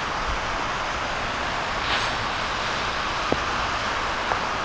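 Steady hiss of rain falling on a flooded roadway, with a couple of short sharp taps in the second half.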